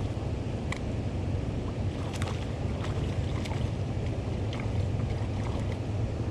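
Steady rushing noise of wind and water around a kayak, with a low rumble and a few light ticks and splashes scattered through it.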